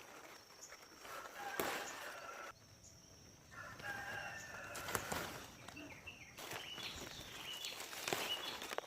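Rooster crowing, with small birds chirping in short high calls later on.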